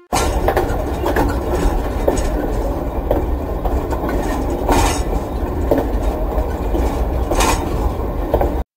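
Railway train running along the track: a steady, deep rumble with irregular sharp clacks of wheels over the rails. It cuts off suddenly near the end.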